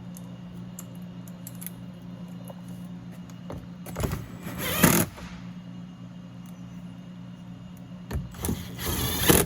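BMW 320xi power door locks actuating twice, about four seconds apart, each a short mechanical whirr that cuts off sharply, as the newly replaced door lock actuator is tested. A steady low hum runs underneath.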